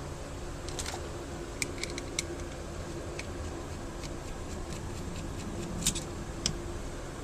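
Light clicks and taps of metal and plastic pistol parts being handled and worked apart, about a dozen scattered clicks with a couple of louder ones near the end, over a steady fan-like room hum.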